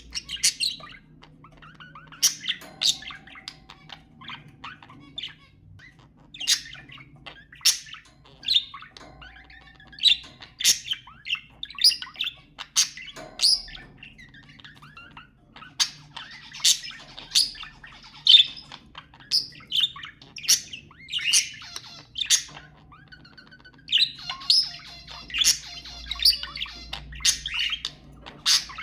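Budgerigars chirping and squawking in short, sharp calls, several close together at times, with a stretch of continuous warbling chatter a few seconds before the end.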